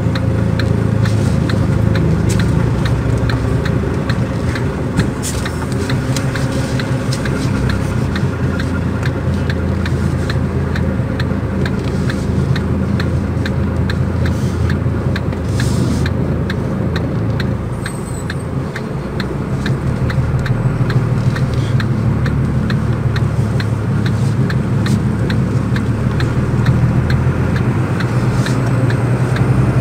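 Heavy truck's diesel engine running steadily while driving, heard from inside the cab; it eases off a little near the middle and picks up again.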